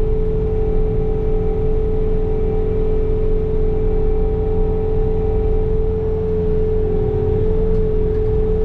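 Bobcat T66 compact track loader's diesel engine running steadily with its snow blower attachment working: a constant low drone under a steady whine held at one pitch.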